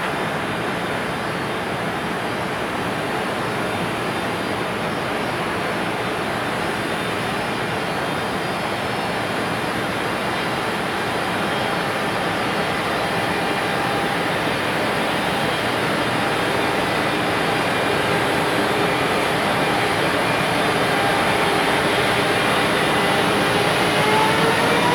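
Freight train departing behind an EF510 electric locomotive: a steady running noise that grows gradually louder, with the locomotive's motor whine rising in pitch over the last several seconds as it gathers speed.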